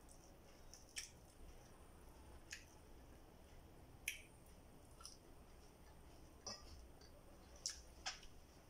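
Eating sounds, close to the microphone: about seven short wet smacks and clicks of a mouth chewing fried fish and rice, eaten by hand, spread over otherwise quiet room tone.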